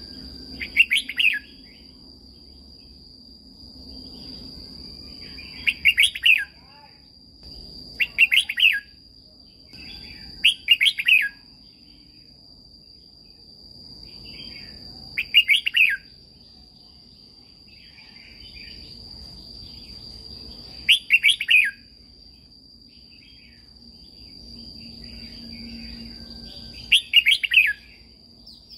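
Red-whiskered bulbul singing short, loud, warbling phrases about seven times, a few seconds apart. Behind it runs a steady high-pitched insect trill.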